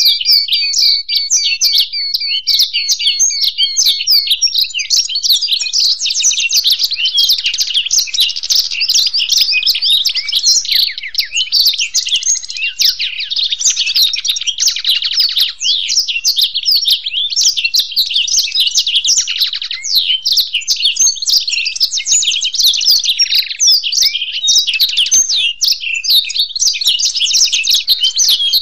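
Black-throated canary (blackthroat) and European goldfinch singing together: a dense, unbroken stream of rapid twittering and trills. A few lower buzzy rattles break in around the middle.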